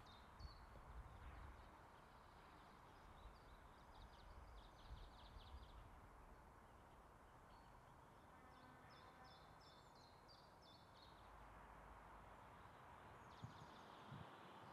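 Near silence: faint outdoor background hiss with a small bird chirping in quick runs of high notes, three times.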